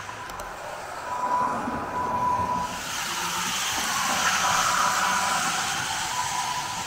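H0 scale model train running on the layout's track: a thin steady whine and a hissing rolling noise that grows louder about three seconds in, as the train comes closer.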